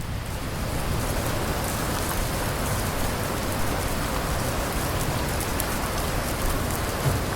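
Steady heavy rain falling on surfaces, a dense even hiss with the patter of individual drops.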